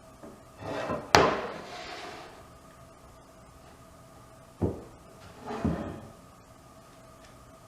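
Three knocks from wooden parts being handled, like a small door or lid being shut: a sweep into a sharp knock about a second in that rings on briefly, a shorter knock later, then a duller thump. A faint steady hum runs underneath.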